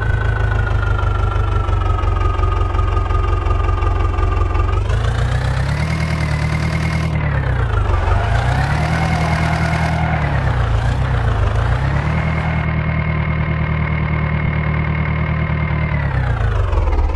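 Heavy diesel engine running, its revs rising about five seconds in, dipping twice, holding high, then falling away near the end, as under working load.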